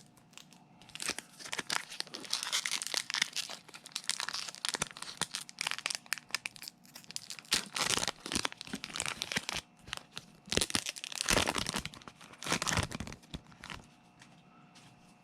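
Foil Pokémon booster pack wrapper crinkling and being torn open, in uneven stretches of crackling with short pauses.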